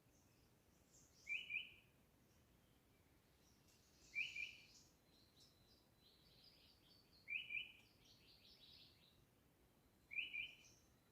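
Birds calling: one bird repeats a short, sharp double note four times, about every three seconds, while other birds chirp more faintly and higher in between.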